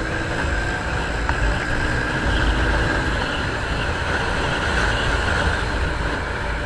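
Yamaha FZS motorcycle running at riding speed, with wind buffeting the camera microphone as a heavy low rumble; a faint steady engine tone fades out about three seconds in.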